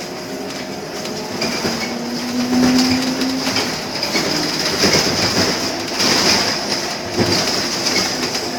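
A large city bus passes close by, its engine, body rattles and tyres growing louder toward the middle and then easing off, over a steady high whine.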